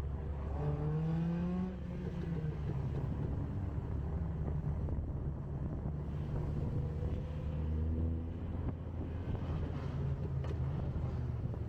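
Car engine and road noise while driving, the engine note rising briefly about a second in.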